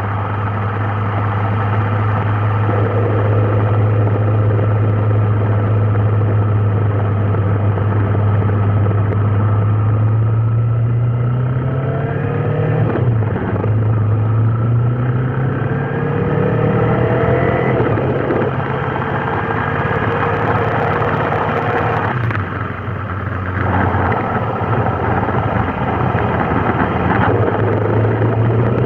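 Vehicle engine running steadily, its pitch rising as it speeds up twice around the middle, with a short dip a little after that.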